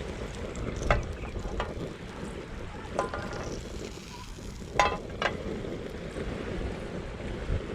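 Butter sizzling in a pan on a portable camping stove, with wind on the microphone. Four sharp clinks sound over it, two close together about five seconds in.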